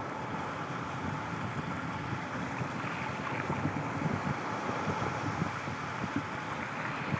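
Wind buffeting the microphone over a steady rushing outdoor background.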